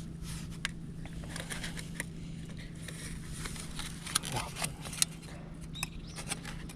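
Scattered light clicks and taps of eating utensils and foil while eating foil-baked food, over a faint steady hum.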